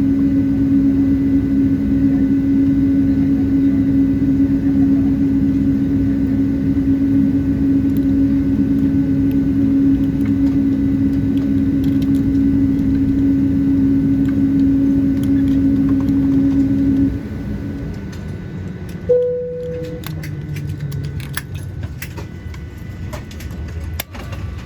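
Boeing 777-200 cabin at the end of taxi-in: a steady engine and air-conditioning hum with a strong low drone, which drops away sharply about seventeen seconds in as the aircraft is shut down at the gate. A couple of seconds later a single cabin chime sounds, then scattered clicks and rattles of seatbelt buckles being undone.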